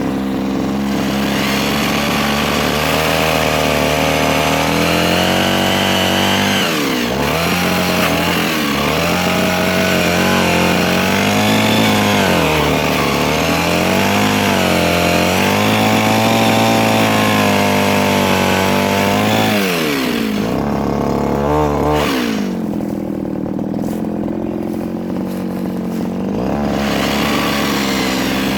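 Mini chainsaw running under load while cutting soft wood, its pitch repeatedly sagging and recovering as the chain bites. About three quarters of the way through it drops to a lower, duller run for several seconds before speeding up again.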